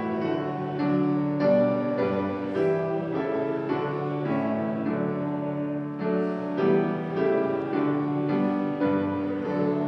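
Slow keyboard music played in chords that change about once a second, with no singing.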